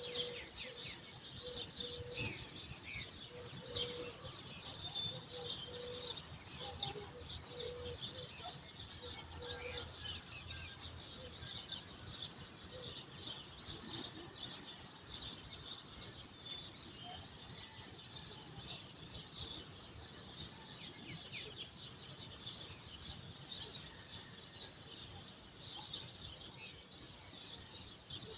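Morning chorus of many small birds chirping and twittering without pause. A low note repeats about twice a second for the first ten seconds, over a faint low rumble.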